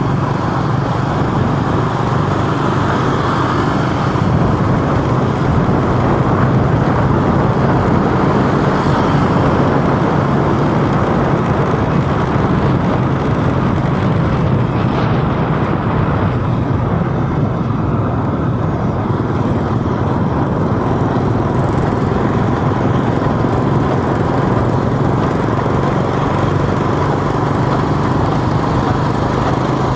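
Vehicle engine running steadily with road noise while driving, a constant low engine hum under a dense rush of noise.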